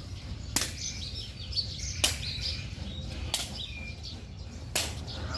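Four sharp hits about every second and a half, evenly spaced like a steady rally in a kicking or hitting game, with small birds chirping between them.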